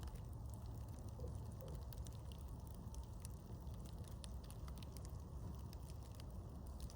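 Campfire crackling: scattered small snaps and pops over a low, steady rumble.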